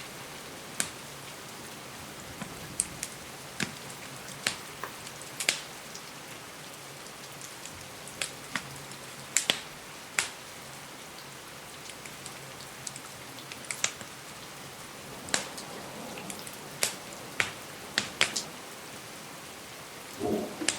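Steady rain hiss with sharp, irregular crackles and pops from a wood fire, roughly one a second. A low rumble of thunder starts right at the end.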